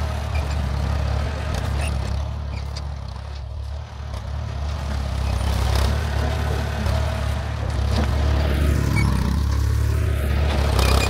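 An engine running at a steady low drone, with a few short knocks over it.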